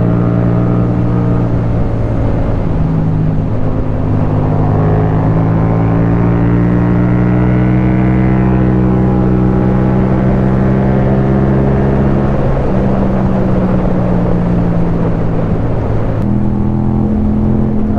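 Yamaha MT-07's 689 cc 270° parallel-twin engine, fitted with an Akrapovic Racing Line exhaust, running steadily under way. The pitch rises slowly in the middle and changes abruptly about two seconds before the end.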